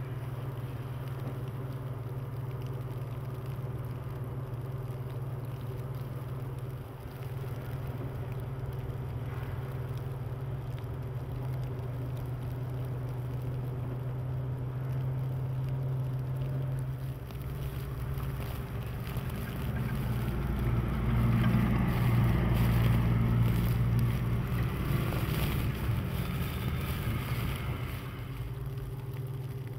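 Motor vehicle engine running with a steady low hum; about two-thirds of the way through it grows louder with tyre and engine noise, as a vehicle passes, then falls back to the steady hum.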